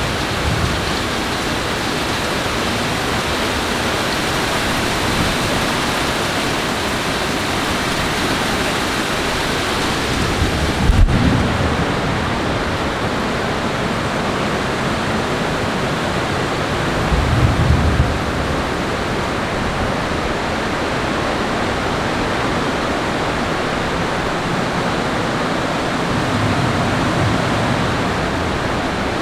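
Steady rush of heavy rain during a thunderstorm, with a low rumble of thunder about a third of the way in, the loudest moment, and a second, shorter rumble a few seconds later.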